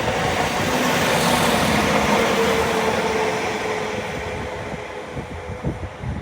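Northern class 195 diesel multiple unit running past on the rails, with a steady engine hum under the wheel and rail noise. It is loudest about two seconds in, then fades as it moves away.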